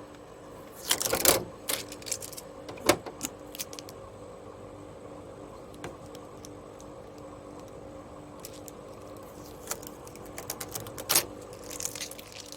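Plastic clicks and knocks of parts being taken off an Elecci 12L/day dehumidifier, in a cluster about a second in and another near the end, over the unit's steady running hum.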